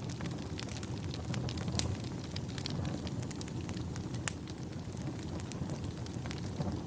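Wood fire crackling, with irregular sharp pops and snaps over a low, steady rumble; one pop about four seconds in stands out as the loudest.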